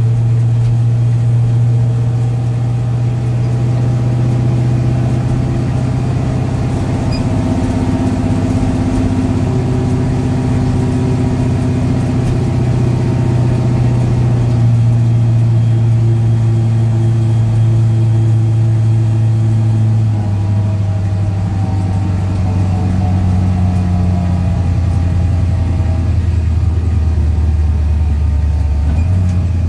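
Small-block Ford 302 V8 of a Fox-body Mustang drag car, heard from inside the cabin, running at low rpm as the car creeps along. The steady drone drops a step in pitch about twenty seconds in and again near the end.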